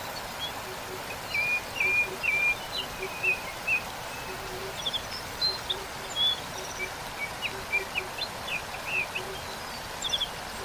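Steady rush of a waterfall with many songbirds chirping and trilling over it in quick short notes, and a low soft note repeating, often in pairs, every second or so.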